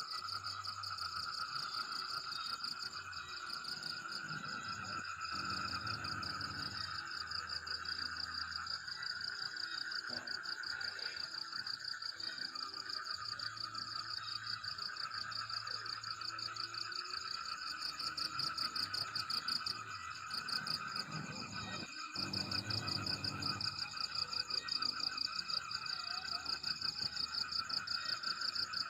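Steady chorus of calling crickets and frogs: fast, continuous trills at a high and a lower pitch, getting more sharply pulsed near the end.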